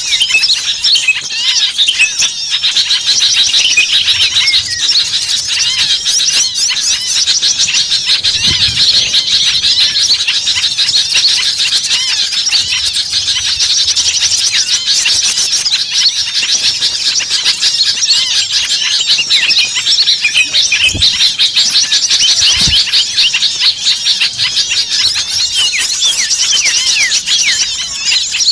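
A dense, noisy chorus of many small songbirds chattering and calling at once, as a bird-lure recording for attracting small birds. The calls are rapid, high-pitched chirps and trills, with no break.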